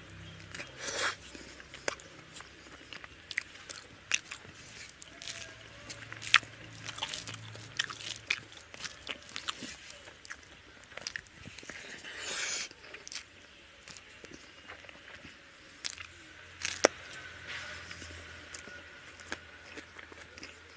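Close-miked eating of chicken curry and rice by hand: chewing and biting with many short, wet mouth clicks and smacks.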